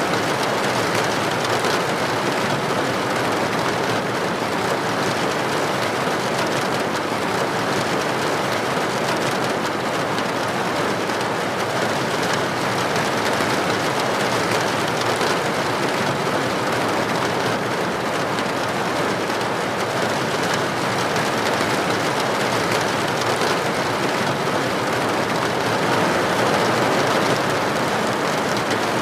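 Steady, heavy rain pattering densely on a hard surface, an even hiss of many drops with no breaks.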